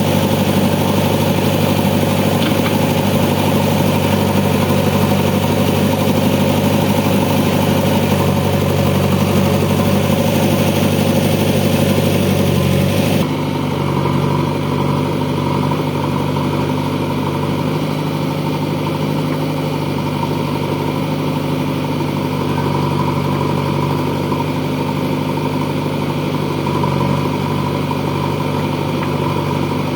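Diesel engine of heavy farm or construction machinery running at a steady speed. About thirteen seconds in, the sound abruptly turns duller and slightly quieter, then runs on steadily.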